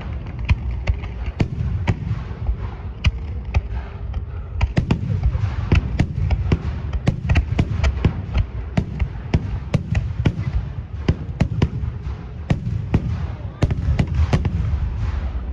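Aerial fireworks going off in a rapid, continuous barrage: many sharp bangs, several a second, over a low booming rumble.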